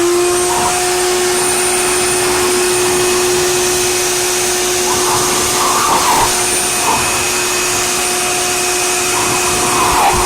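Electric blower running at a steady pitch, a constant whine over a loud rush of air.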